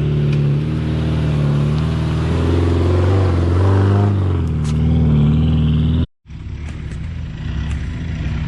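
Off-road vehicle's engine working under load, its pitch rising and falling as the revs change. About six seconds in the sound cuts out abruptly for a moment, then returns quieter and steadier.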